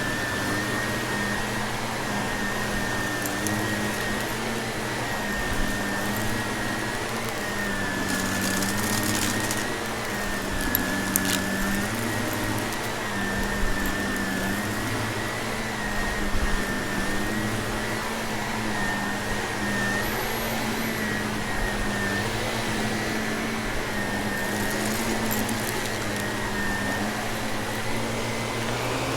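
Vacuum cleaner running steadily, its motor whine wavering slightly in pitch as the load changes, with scattered crunches of debris being sucked up.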